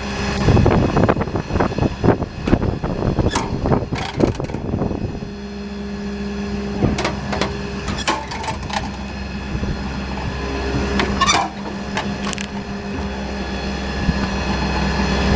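A 6.7-litre Power Stroke V8 turbo-diesel idling steadily, with a run of clicks and knocks over it, thickest in the first few seconds and scattered after.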